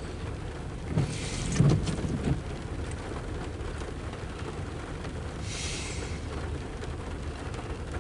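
Rain falling with a steady low rumble underneath. A brief cluster of low thumps and crackle comes about a second in, and a short hiss near six seconds.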